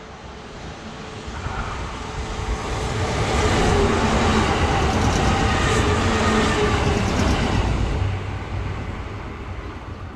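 Kintetsu Aoniyoshi sightseeing limited express, an electric train, passing close by at speed. The rumble of wheels on rails, with a steady hum, swells over the first few seconds, is loudest as the cars go past, then fades as the train moves away.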